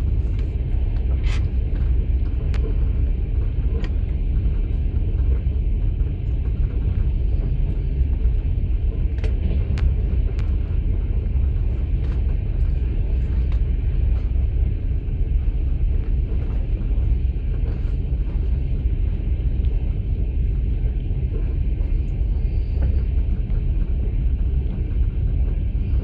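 Steady low rumble of a passenger train running, heard from inside an open-plan sleeper carriage, with a few faint clicks in the first ten seconds.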